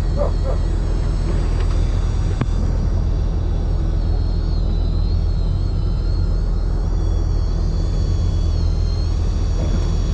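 Fishing boat's engine running with a steady low rumble. A single click comes about two and a half seconds in.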